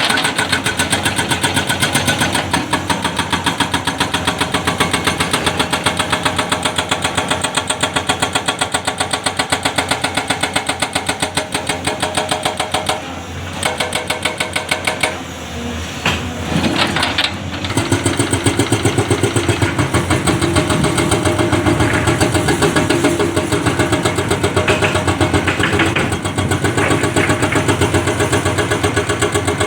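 Heavy diesel engine of road-work machinery running with a rapid, even pulse. It eases off briefly about halfway through, then picks up again.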